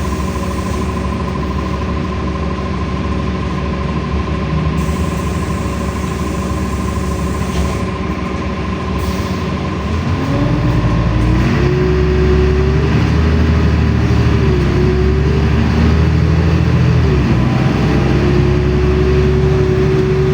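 LiAZ-5292.65 city bus engine running steadily, then pulling away and accelerating about halfway through: the engine pitch rises, dips briefly twice, then holds steady as the bus cruises.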